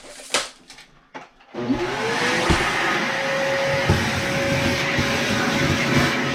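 Light knocks, then about a second and a half in a vacuum cleaner switches on, its motor whining up to speed and then running steadily, with a few thumps.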